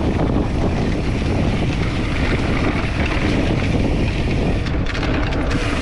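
Steady wind rush on the microphone and mountain bike tyres rolling fast over a dirt trail.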